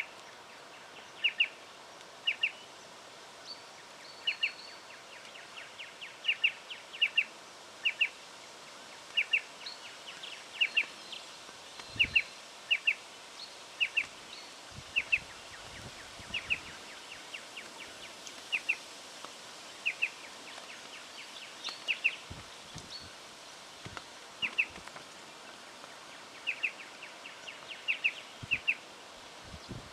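Striated pardalote calling over and over: a sharp doubled chip repeated about once a second, with short pauses between runs.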